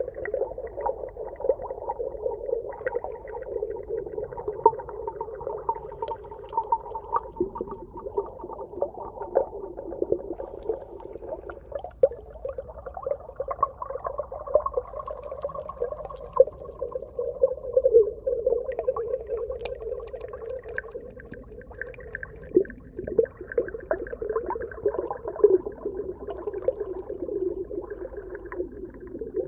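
Underwater soundscape: a continuous low, wavering hum with many short clicks and pops scattered over it.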